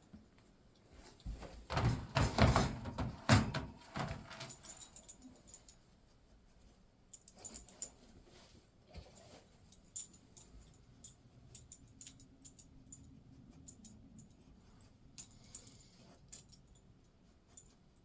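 Metallic jingling and clattering as a dog goes into a kennel crate, loudest in a burst lasting a few seconds, then scattered light clicks and jingles.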